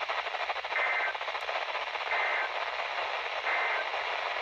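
Emergency Alert System SAME data bursts: three short, identical warbling digital chirps about a second and a half apart, the end-of-message code sent three times over a hissy weather-radio broadcast.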